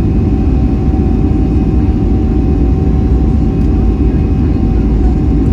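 Boeing 737-400's CFM56 jet engines heard from inside the cabin: a loud, steady low rumble with a faint constant whine over it.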